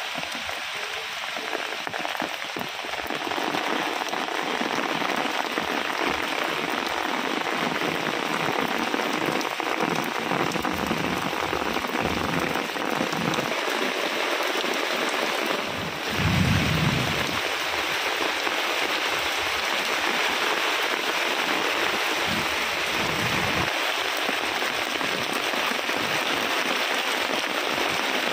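Heavy rain falling steadily in a dense, even hiss, with a brief low-pitched swell about halfway through.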